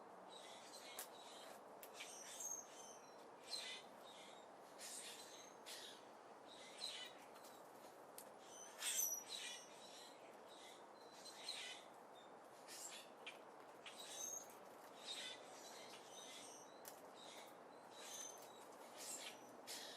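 Small birds chirping at a seed feeder: short, high chirps come about once a second, with the loudest cluster about halfway through, over a faint steady hiss.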